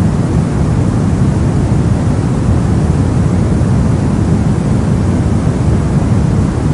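Steady brown noise: a constant, deep rumbling hiss with most of its energy in the low end, unchanging throughout.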